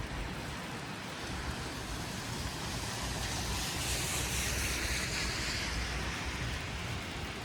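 City street traffic with a car passing, its tyres hissing on the wet, snowy road; the hiss swells to its loudest about four to five seconds in, then fades.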